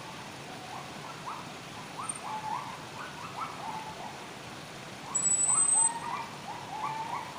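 Wild birds calling in a chorus of short, repeated notes that rise in pitch, over a faint steady hiss. About five seconds in, a single thin, high whistle lasts just under a second and is the loudest sound.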